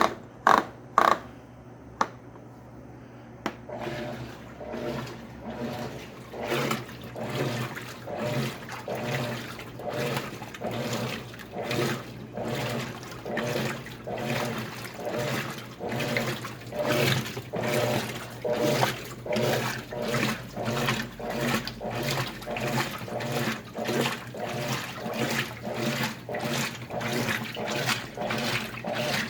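Washing machine churning water during a wash cycle, a swish about once a second in a steady rhythm. A few sharp clicks come first, in the opening seconds.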